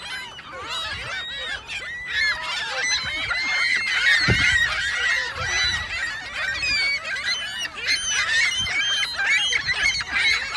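A large flock of birds calling all at once, many short squawking calls overlapping continuously. A low thump comes about four seconds in.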